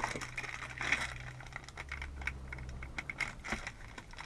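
Irregular small clicks and taps as door lock latches are handled and set side by side, with a low steady hum underneath.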